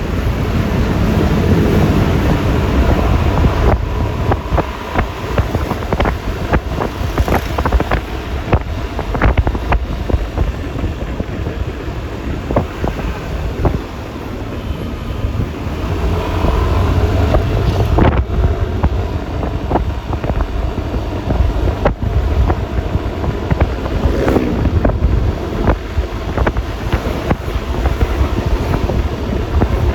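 Riding a Yamaha Lexi LX 155 scooter: heavy wind buffeting on the microphone over road noise and the scooter's engine. There are scattered sharp knocks, and an engine note slides up and down about a second in and again near the 24-second mark.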